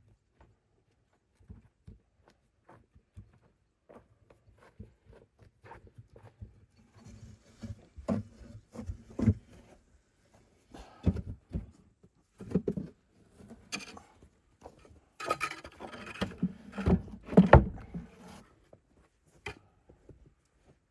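Irregular knocks, clatters and scrapes of objects being handled in a small room, sparse at first, then busier and louder, with the loudest cluster about three quarters of the way through.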